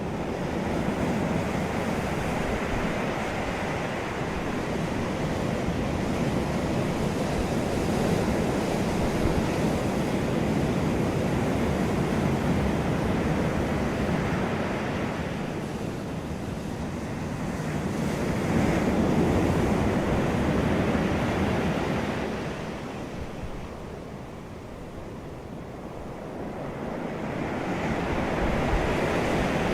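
Wind and surf: a continuous rushing noise that slowly swells and eases, with loud stretches several seconds long and quieter dips between them.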